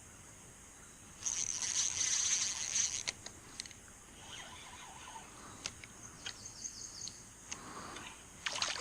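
Fishing reel whirring for about two seconds as line is wound in, followed by scattered light clicks: a small fish, a young striped bass, being reeled in.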